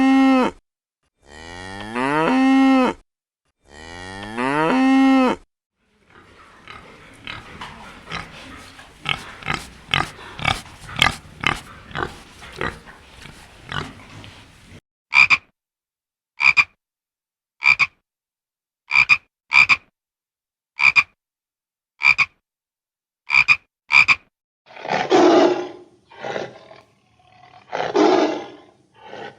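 A run of animal calls: first three long cattle moos, each rising in pitch. Then comes a fast clicking, croaking rattle, then about nine short, sharp high calls roughly a second apart. Near the end there are two or three rough roars of the kind big cats make.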